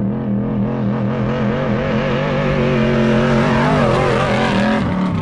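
The race truck's engine running at steady revs as it drives, its pitch wavering slightly, then shifting near the end.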